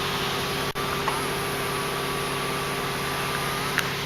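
Power-folding side mirror motor of a 2009 Hummer H2 whining steadily for about three and a half seconds as the mirror folds, stopping with a click near the end, over a steady low hum.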